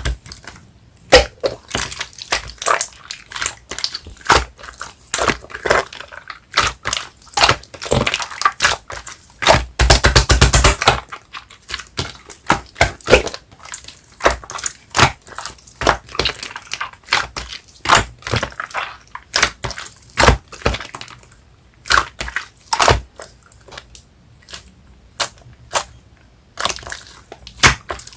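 Slime with soft clay mixed in being kneaded and squeezed by hand: irregular sticky pops and crackles of trapped air, with a run of dense crackling about a third of the way in.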